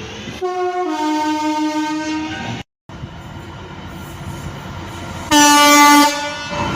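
Train horn sounding two notes, a short higher note then a longer lower one. After an abrupt cut, a train runs past and a second, louder horn blast sounds near the end.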